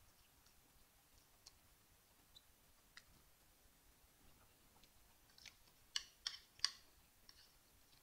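Wet mouth clicks and lip smacks from chewing a mouthful of rice and beans: faint scattered ticks, then a quick run of three sharp clicks about six seconds in.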